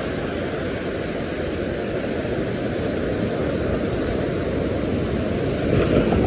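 Steady low rushing noise of wind and surf, with no break, growing a little louder near the end.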